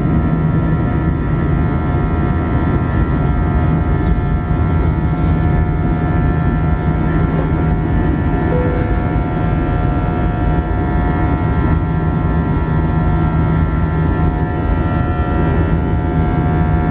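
Airbus A320 jet engines running at high thrust during takeoff, heard from inside the cabin: a loud, steady noise with several fixed tones that hold without rising or falling.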